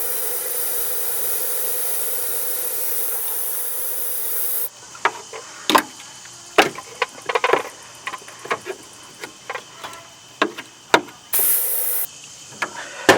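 Aerosol can of penetrating spray hissing steadily for about four and a half seconds, then cutting off, as it is sprayed into the spark-plug holes to free a seized snowmobile engine. Scattered clicks and knocks of handling follow, with one more short burst of spray near the end.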